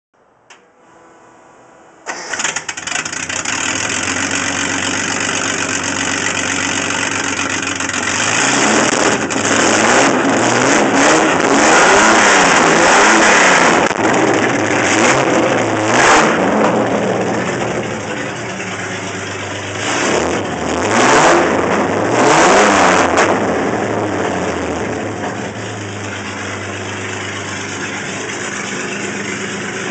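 1977 Datsun 280Z race car's L28 straight-six, with triple Mikuni carburettors, a race cam and dual straight pipes, being started. The starter cranks briefly and the engine catches about two seconds in. It then idles, is revved up and down in two spells of blips, and settles back to a steady idle.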